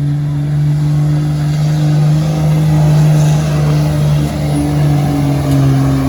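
Pulling truck's engine running hard under full load as it drags the weight sled down the track, a loud, steady drone that holds nearly the same pitch with small dips.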